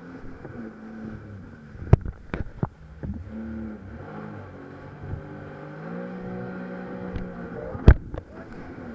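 Jet ski engine running and then revving up about six seconds in, its pitch stepping higher and holding. Several sharp thumps cut across it, the loudest about two seconds in and near the end.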